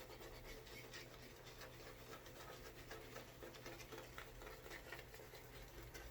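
Faint, rapid scratching of a GEM 1912 single-edge safety razor cutting through lathered stubble, many short strokes in a row.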